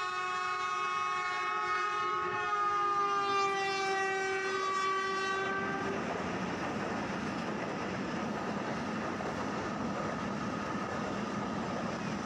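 Pakistan Railways PHA-20 diesel locomotive sounding one long horn blast as it runs past at speed, the horn's pitch dropping as it goes by. The horn stops about halfway through, leaving the steady rush and rattle of the passenger coaches passing close by.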